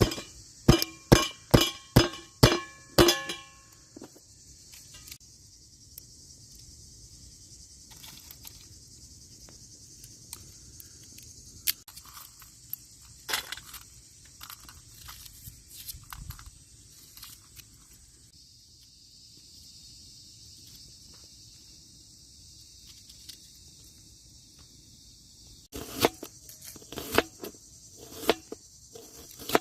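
Sharp chopping strikes on a cutting board, about seven in quick succession, then scattered light knocks and handling, and another run of chopping near the end. A steady high insect buzz runs underneath.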